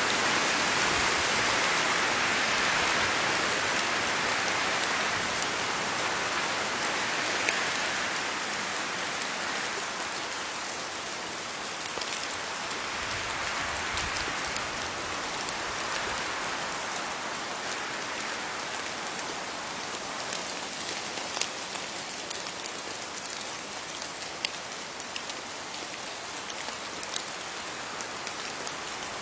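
Steady rain falling on leaves: a dense, continuous hiss of drops with scattered single drops ticking sharply. It is heavier for the first several seconds, then eases a little.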